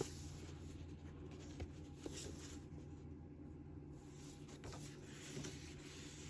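Faint rustling and soft ticks of book pages being handled and turned, over a low steady hum.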